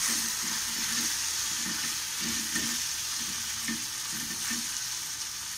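Onion-tomato masala sizzling in a metal kadai while a long-handled spoon stirs it, with soft repeated stirring strokes against the pan. The freshly added chilli, coriander and garam masala powders are being cooked into the fried onions and tomatoes.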